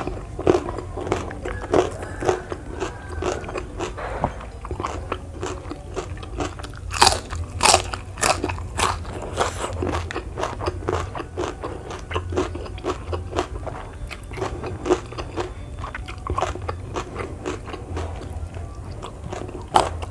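Close-up biting and chewing of crunchy raw vegetables: a continuous run of crisp crunches, with a few louder bites about seven and eight seconds in.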